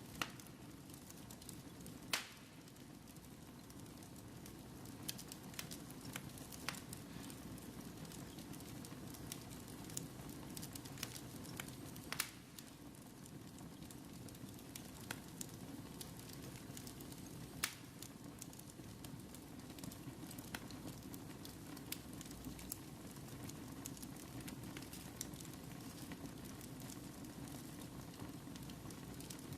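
Wood fire in a fireplace crackling: a steady low rush of flame with scattered sharp pops of burning wood, a few of them much louder than the rest.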